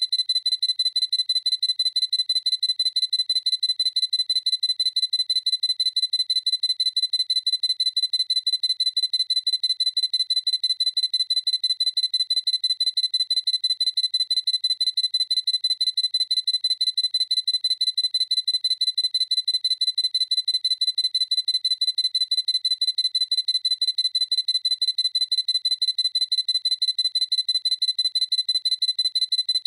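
Sony A7C mirrorless camera's autofocus confirmation beep: a high-pitched electronic beep repeated rapidly and evenly, several times a second, at a constant pitch.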